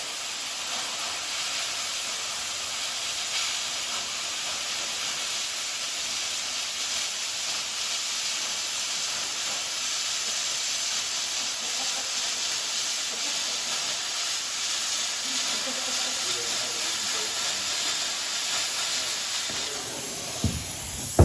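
Plasma cutter cutting through sheet steel, giving a steady hiss for about twenty seconds. It breaks off near the end with a low thump.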